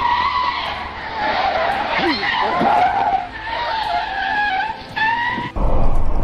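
Car tyres screeching in a skid, a high wavering squeal that breaks off and resumes a few times before cutting off suddenly near the end.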